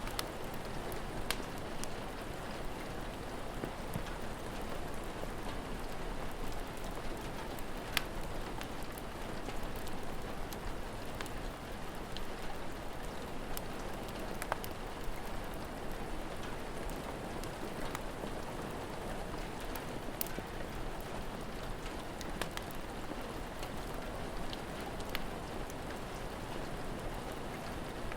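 Steady rain falling, with scattered sharp crackles and pops from a fire.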